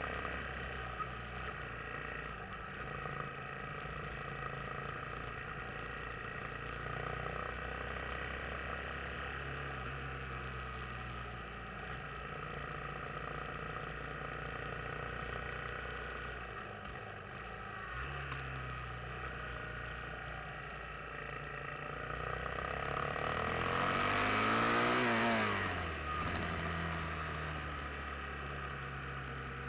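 Yamaha XT250 single-cylinder motorcycle engine running under way, its pitch stepping up and down several times with throttle and gear changes. About 23 seconds in, a louder engine sound swells, rises and then falls steeply in pitch before fading back to the steady running note.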